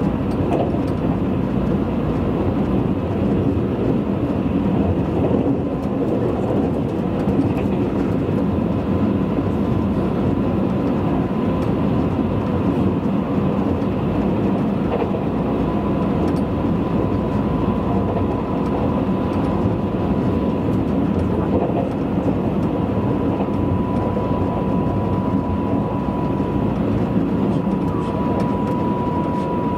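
Running noise of a Tobu 100 series Spacia electric limited express at speed, heard inside the passenger cabin: a steady rumble of wheels on rail. A thin, steady high tone comes in about halfway through and grows stronger toward the end.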